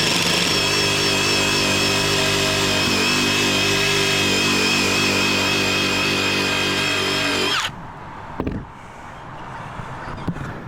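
Power tool spinning a wire brush against a metal deck fitting, scouring off rust and old crud at a steady high whine, then switched off abruptly about seven and a half seconds in.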